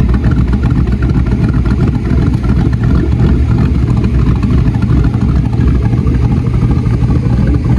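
Chevy Tahoe engine idling, a steady low drone with no change in speed.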